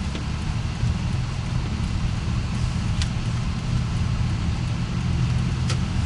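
Steady low rumble of a car's engine and tyres heard from inside the cabin while driving, with a couple of faint ticks.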